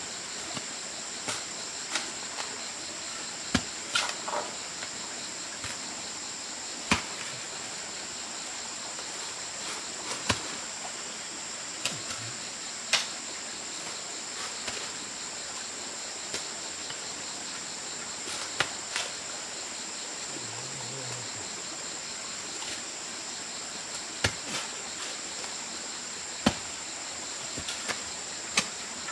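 Steady high-pitched drone of insects, with irregular sharp knocks every second or two.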